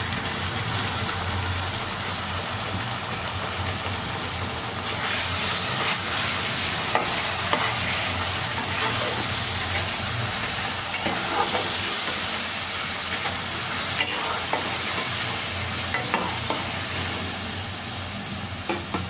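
Tomato, ginger and garlic paste sizzling in hot mustard oil with sliced onions in a kadai, stirred with a spatula. The sizzle gets louder and brighter about five seconds in.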